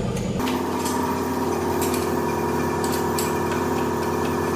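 A machine running with a steady, even hum in a workshop, with a few light clicks over it.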